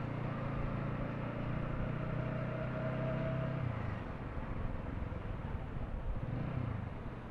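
Traffic engine noise heard from a motorcycle in slow traffic. A steady low engine hum, with a faint higher whine, lasts about the first four seconds and then eases off into general road noise.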